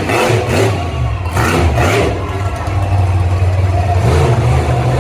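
Monster truck engine revving hard in a few quick bursts, then running loud and steady at high revs.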